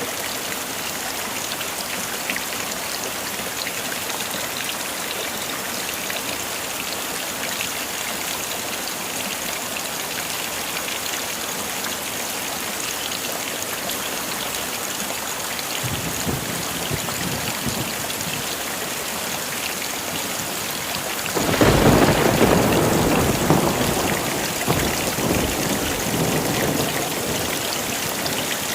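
Heavy rain falling steadily. A low rumble of thunder builds a little past halfway, then a loud thunderclap breaks about three-quarters of the way in and rolls on, slowly fading.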